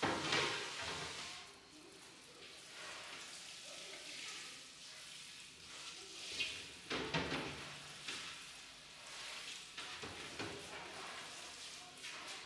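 Work noise in a commercial kitchen: a steady hiss with several clattering knocks of kitchenware, the loudest at the start and again about seven seconds in.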